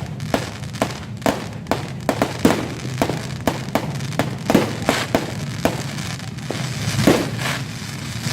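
Fireworks going off in a rapid, irregular string of sharp bangs, several a second, over a steady low background rumble.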